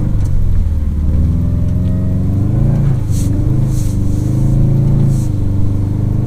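Subaru WRX STi's turbocharged flat-four engine running while driving in snow. Its note dips and then climbs about halfway through, then holds steady. A few short hisses sound near the middle.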